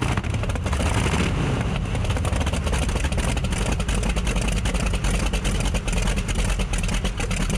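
A tractor's 55-litre radial engine running steadily, a loud, even run of rapid firing pulses over a deep low end.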